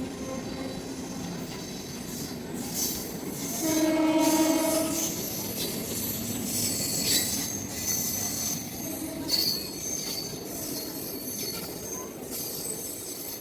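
MEMU electric multiple-unit passenger train moving with a high-pitched wheel squeal throughout. Its horn sounds once, about four seconds in, for about a second and a half.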